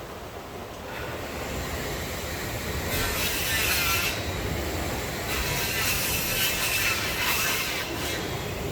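Rain and sea surf, a steady low rush with two louder hissing surges of water, one about three seconds in and a longer one from about five to eight seconds in.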